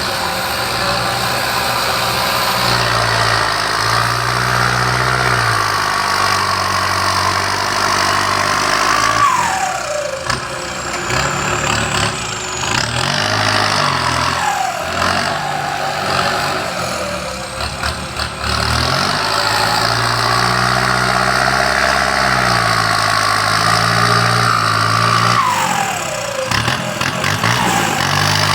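Engines of heavy earthmoving machines running, with engine speed stepping up and down. A short falling whine is heard three times.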